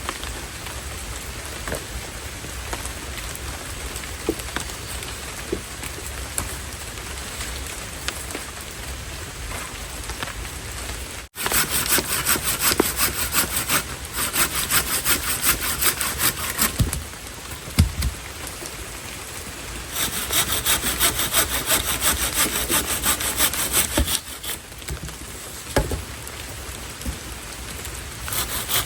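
Steady heavy rain, then, after a cut about eleven seconds in, wood being sawn by hand in fast, even strokes, in bouts separated by short pauses, with the rain still going behind it.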